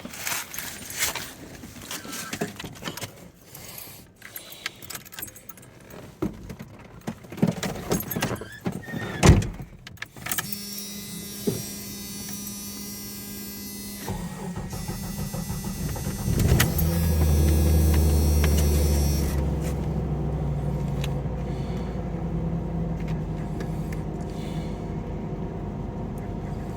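Jeep Comanche pickup cold start. Keys jangle and click for several seconds, with a loud thump about nine seconds in, then a steady hum with the key on. The engine cranks, catches about sixteen seconds in, revs briefly and loudly, and settles into a steady cold idle.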